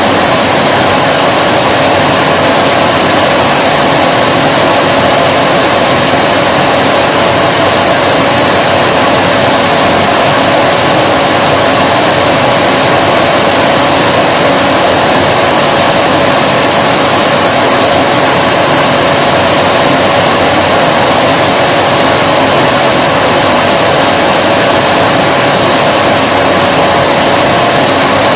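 Vacuum cleaner motor running continuously at a steady pitch, a loud, even whooshing hiss with a steady whine in it and no change in speed.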